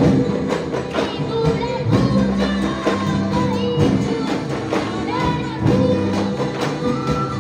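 Live band music with a singer over a steady drum beat.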